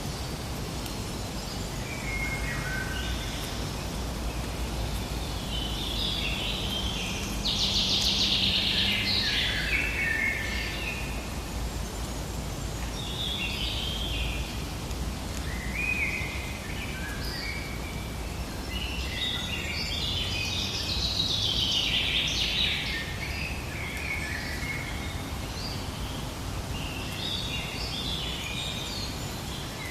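Forest birds singing, several warbled phrases of quick stepping notes that come and go, over a steady low rumble and hiss of background ambience.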